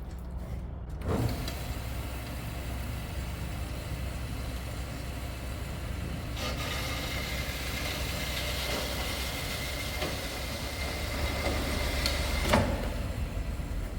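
Workshop machine cutting steel flat bar: a steady low hum, a click about a second in, then a hiss. From about six seconds a thin steady whine joins the hiss, and both stop with a sharp knock near the end.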